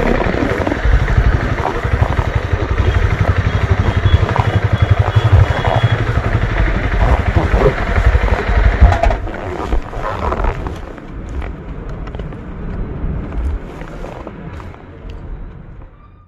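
Honda CB300R single-cylinder engine running on the move, a steady low pulsing exhaust note that dies away over the second half and cuts off at the very end.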